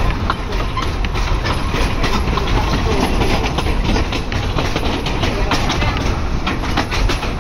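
Train running on the track: a steady rumble with dense rattling and clicking from the wheels and carriage.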